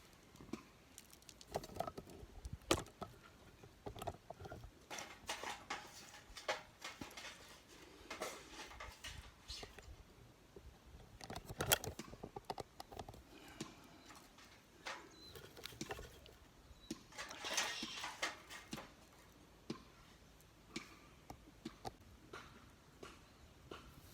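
Irregular light clicks, taps and rustling of small objects being handled, with a few sharper knocks, the loudest about 12 seconds in.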